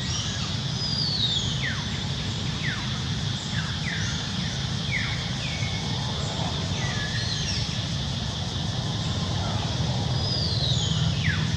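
Outdoor ambience of birds calling: repeated short calls that slide downward in pitch. Under them run a steady high-pitched drone and a low rumble.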